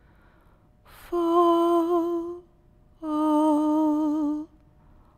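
A woman's voice humming two long held notes at much the same pitch, each lasting about a second and a half, with a short breath just before the first.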